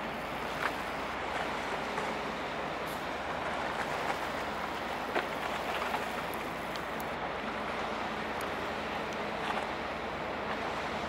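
Steady rushing noise over a faint low hum from a passing river passenger ship's diesel engines, with a few small ticks scattered through it.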